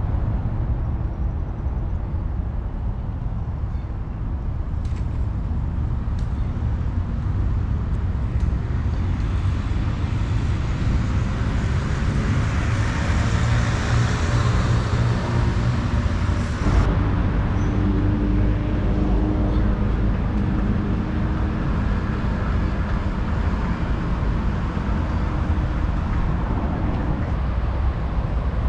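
Road traffic going by steadily, with a heavy low rumble. Partway through, a passing vehicle swells louder for several seconds and then drops away.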